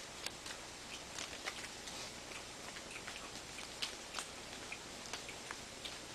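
Small wood fire of damp kindling and wet wood crackling, with irregular sharp pops over a faint steady hiss.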